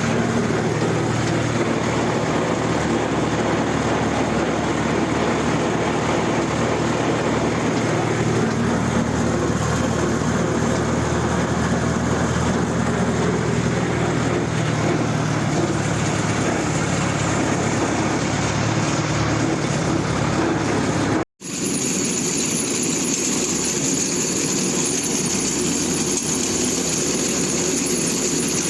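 Zetor Super 50 tractor's four-cylinder diesel engine running steadily. About three quarters of the way through the sound cuts out for a moment and picks up again with more hiss and less low rumble.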